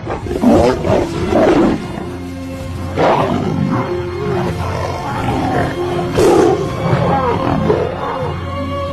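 Lions snarling and roaring in a fight, in loud bursts about half a second in, at about three seconds and at about six seconds, over background music with held notes.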